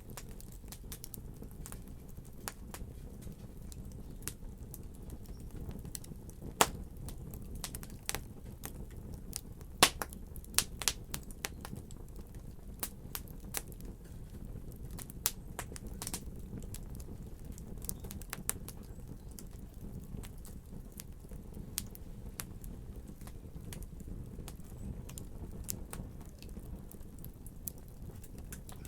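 Wood fire burning in a fireplace: a steady low rumble with scattered sharp crackles and pops, the loudest about seven and ten seconds in, and a quick run of pops just after.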